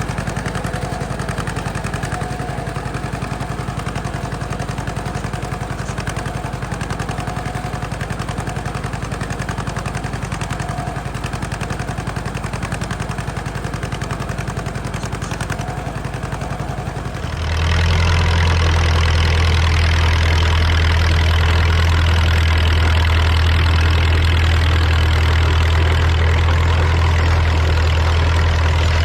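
Tractor engine running steadily. About two-thirds of the way through, it gives way abruptly to a louder, deeper engine sound that runs on steadily.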